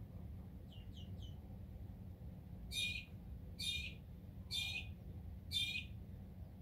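A bird calling in a garden: three faint quick chirps, then four loud, harsh, high calls about a second apart.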